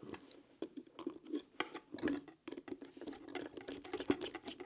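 Small screwdriver undoing tiny screws on an RC helicopter's tail section, with many light, irregular clicks and scratches of metal on screw heads and plastic.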